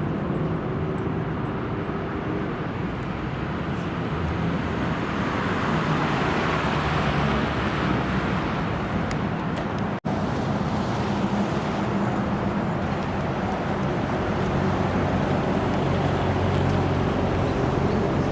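Car engines running at idle, a steady low drone over road and traffic noise, swelling for a few seconds near the middle. The sound breaks off abruptly about ten seconds in and picks up again on another idling engine.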